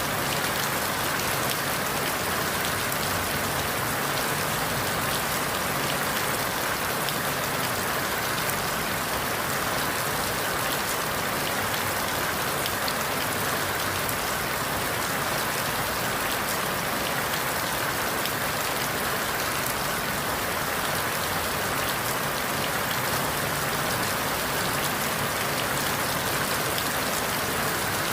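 Steady rain falling through forest leaves, an even hiss full of fine drop patter, with no changes.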